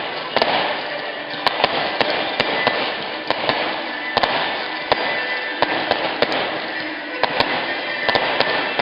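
Fireworks fizzing with a steady loud hiss, spattered throughout with many small, irregularly spaced crackling pops.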